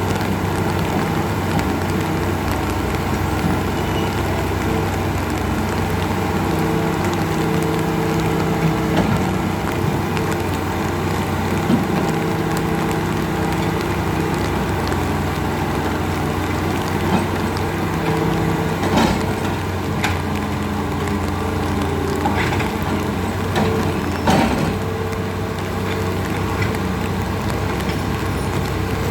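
A large engine running steadily, its hum shifting now and then, over a constant noisy wash, with a few sharp knocks or cracks near the middle and later part.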